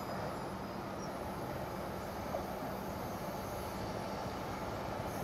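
Intermodal container freight wagons rolling past on the track: a steady rumble of wheels on rail.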